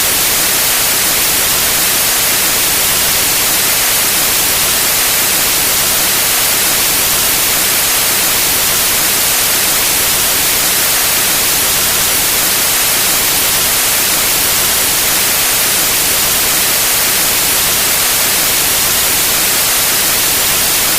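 Steady white noise: an even, unbroken hiss, brightest in the highest frequencies.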